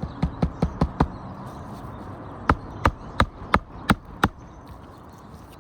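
Hammer driving nails into asphalt roof shingles: five quick blows at the start, a pause, then six more at about three a second.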